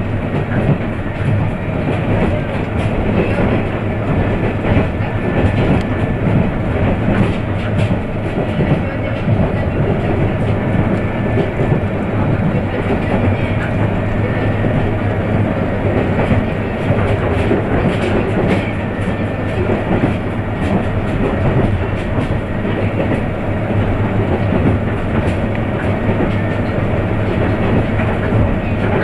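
KiHa 100 series diesel railcar running at speed, heard from inside the car: a steady low engine drone under the rumble of wheels on rail, with scattered clicks as the wheels pass over rail joints.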